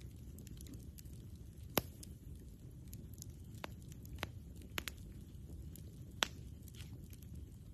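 Campfire burning, the wood crackling with a scatter of faint ticks and several sharp pops over a low steady rumble. The loudest pops come about two seconds in and about six seconds in.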